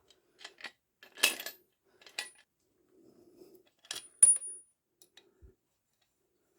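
Small metal parts clinking and being set down: a few sharp metallic clinks, the loudest about a second in and just after four seconds, the last with a brief high ring.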